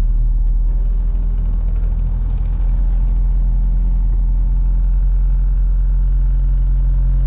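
Turbocharged Honda CR-V's B20 four-cylinder engine running at a steady speed with a deep, even hum. It rises slightly about two and a half seconds in.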